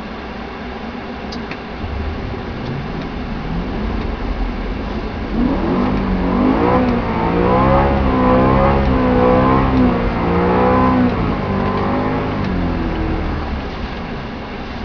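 BMW E90 M3's V8 engine revving under throttle: its pitch climbs about five seconds in, wavers up and down for several seconds, then drops back to a steady low rumble.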